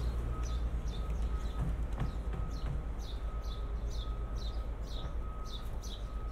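Street ambience with a steady low traffic rumble, over which a small bird chirps over and over, short falling chirps about twice a second. A faint steady high hum runs underneath.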